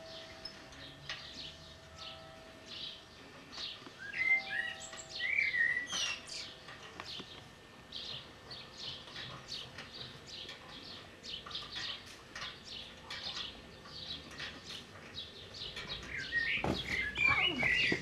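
Garden birds chirping in short, quick notes, with a couple of brief warbling phrases about four seconds in and again near the end.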